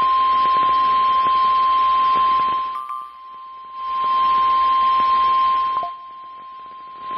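Weather radio warning alert tone: a single steady high tone held unbroken at about 1 kHz, the 1050 Hz signal that precedes a National Weather Service warning. It sounds over a hiss that drops away twice.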